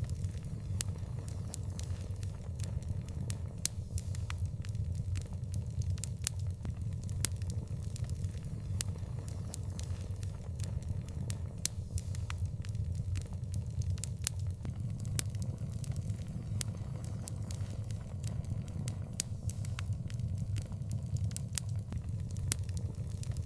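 Open fire crackling: frequent, irregular sharp pops and snaps over a steady low rumble.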